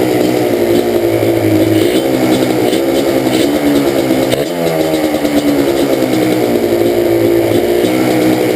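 Yamaha Banshee's two-stroke twin engine idling, its pitch sagging and recovering briefly about halfway through. The left cylinder is misfiring badly, a fault that has survived rebuilt and balanced carbs, adjusted air screws and a plug swap.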